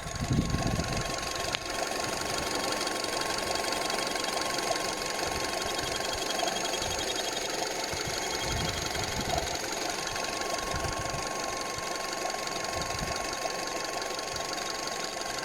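Skoda Octavia engine idling with a steady high whistle running through it, coming from the corrugated intake hose to the canister purge valve, a known whistle on VAG engines. There is a low thump about half a second in.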